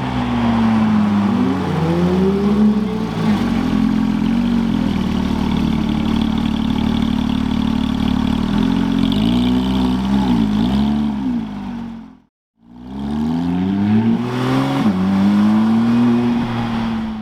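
Sports car engines revving and accelerating, the pitch repeatedly rising and falling as the cars pull away. About ten seconds in come several quick throttle blips. The sound cuts out briefly about twelve seconds in, then resumes with another car accelerating.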